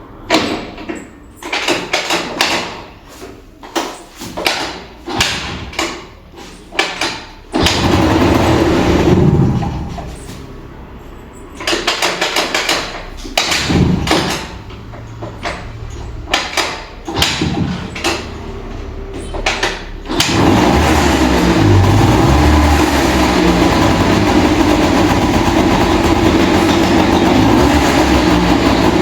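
Kinetic Honda two-stroke scooter engine on a hard cold start. It is cranked in repeated short bursts, fires briefly twice and dies, then catches about twenty seconds in and runs steadily.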